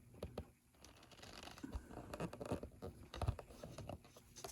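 Irregular scratching and small clicking noises, with a sharper knock about three seconds in, typical of handling noise rubbing against a microphone.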